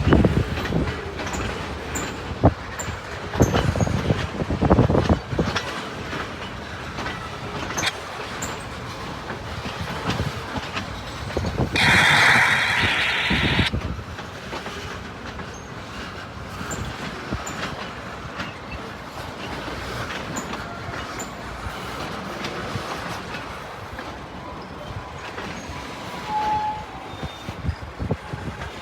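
Freight train rolling past, its wheels clicking irregularly over rail joints. About twelve seconds in there is a louder, brighter burst lasting under two seconds.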